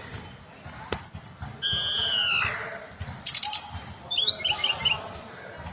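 A tledekan gunung songbird singing a varied song. A sharp chirp is followed by slurred, falling whistles, then a fast high rattle, then a run of quick warbled notes.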